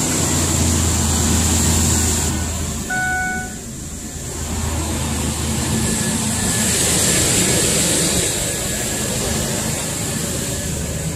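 2003 Ford Explorer's 4.0-litre V6 idling just after starting, running quiet with no exhaust leak to be heard now that the hole in the exhaust has been welded shut. A steady low hum weakens about three seconds in.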